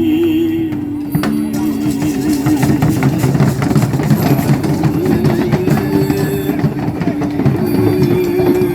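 Group percussion practice: hand drums and other percussion played together under a held, stepping melody line, the drumming growing denser about two to three seconds in.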